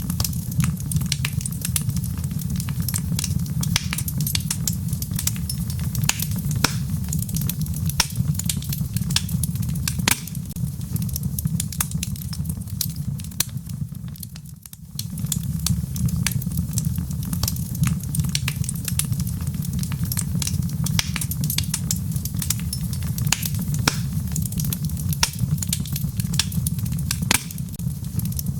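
Wood fire in a fireplace crackling, with frequent sharp pops and snaps over a steady low rumble. The sound dips briefly about halfway through, then carries on.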